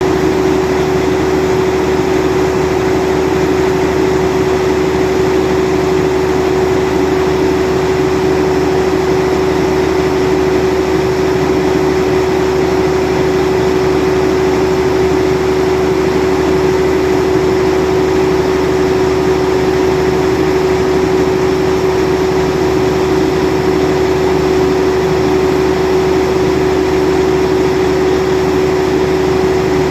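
Caterpillar generator engine running steadily with no load at about 1450 rpm: an even, unchanging drone with one strong steady hum.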